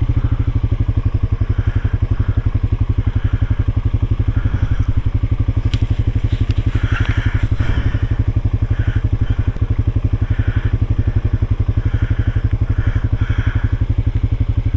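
Off-road vehicle engine running steadily at low speed, with some crunching over rocky ground.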